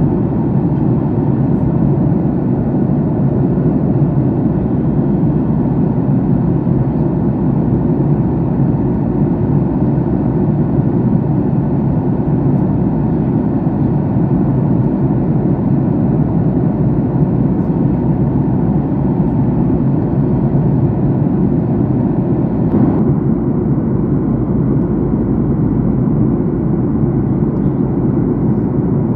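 Steady low roar of a jet airliner's cabin in flight, from engine and airflow noise. About three quarters of the way through there is a faint click, and the higher hiss drops slightly.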